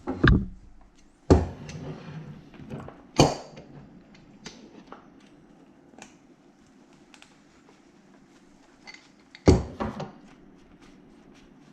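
Handling noise from working on metal strap hardware with hand tools: a few sharp knocks and clicks, the loudest near the start, about a second in, about three seconds in and about three-quarters of the way through, with faint ticks between.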